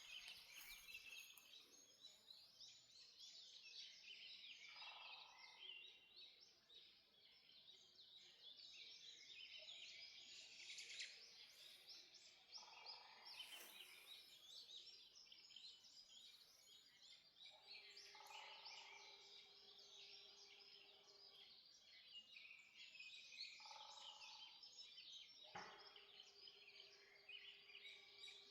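Dawn chorus of many forest birds singing at once: a dense, continuous tangle of short chirps and trills, heard faintly, with some lower calls now and then.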